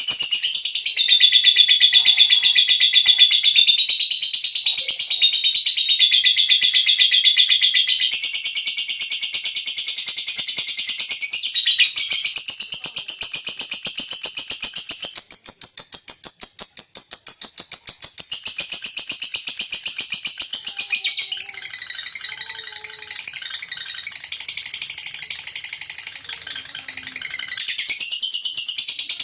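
Lovebird singing a long, unbroken, high-pitched rapid chattering trill, the continuous 'ngekek' of a konslet lovebird, its pitch shifting as it goes. It eases off for a few seconds about three-quarters of the way through, then picks up again.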